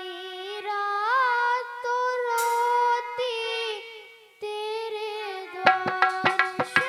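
Female voice singing a Hindi devotional bhajan in long held, wavering notes over a sustained instrumental accompaniment; sharp hand-drum strikes come in near the end.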